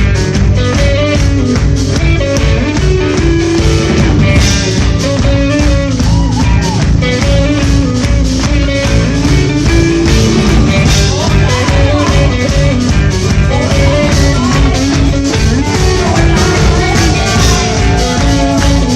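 Live rock band playing loudly, a full-band passage over a steady drum beat.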